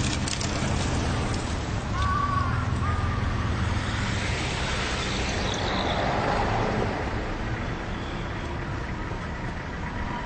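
Road traffic going by at a city street crossing: a steady din of car engines and tyres, with a couple of short high tones about two seconds in.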